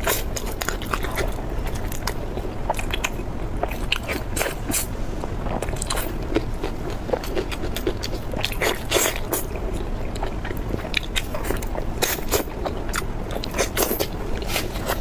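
Close-miked biting and chewing of a crispy fried chicken cutlet: a dense, irregular run of crisp crunches and crackles.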